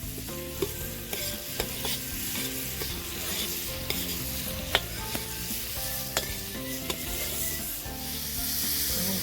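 Garlic and bell pepper sizzling in hot oil in a paella pan while being stirred, with a few sharp clicks through the steady sizzle.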